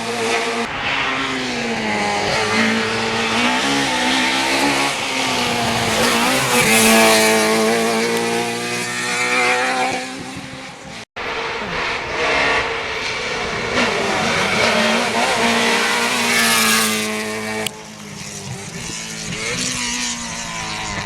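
Rally car engines revving hard, the pitch climbing and dropping repeatedly through gear changes and lifts as the cars drive the stage. There is a sudden break about halfway, then another run of engine revving.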